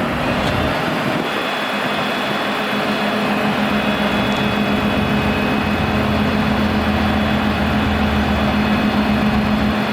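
Ford F650 dump truck's engine running steadily, with an even low hum.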